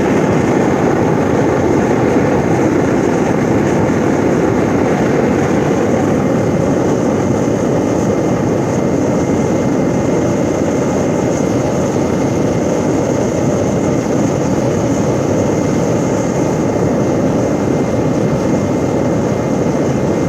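Homemade waste-cooking-oil burner running steadily in a ground forge, air-fed by a 200-watt electric blower: an even, loud roar of atomized oil burning, with a thin steady high whine on top.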